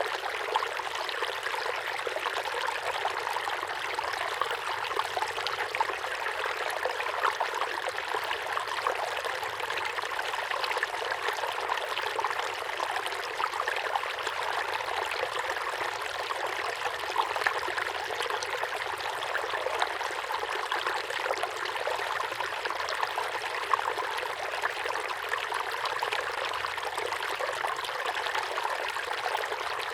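Small waterfall pouring steadily into a pond, a continuous splashing and trickling of falling water.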